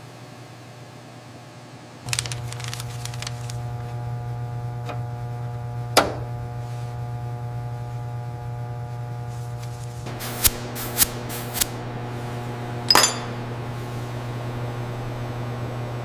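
A steady electrical or machine hum comes in about two seconds in. Over it come several sharp metallic clinks and taps: one, then three close together, then one more.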